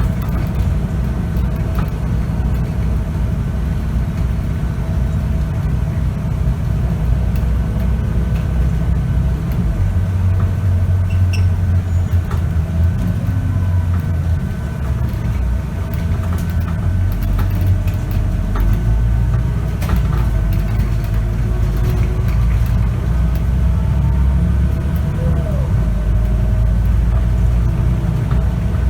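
Scania K94UB bus's nine-litre five-cylinder diesel running under way with its ZF automatic gearbox, heard from inside the cabin. The engine note steps up and down several times, with a faint steady whine above it.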